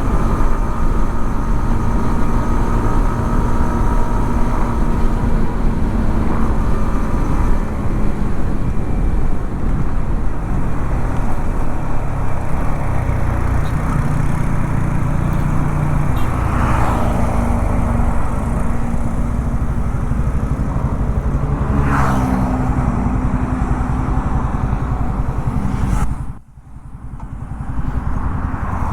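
Yamaha XSR 155's single-cylinder engine running on the move, its pitch rising and falling with wind and road noise underneath. Near the end the sound drops away suddenly for about a second, then returns.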